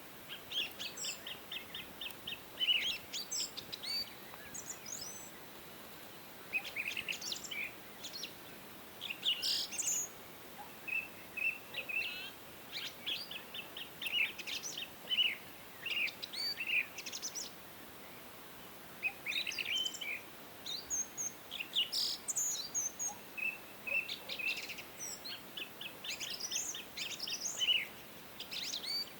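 Several songbirds singing and chirping in bouts of quick trills and short notes, a few seconds at a time with brief pauses, over a faint steady background hiss.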